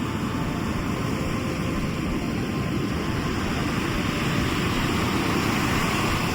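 Sea waves washing onto the shore as a steady rush of surf, swelling a little louder in the second half.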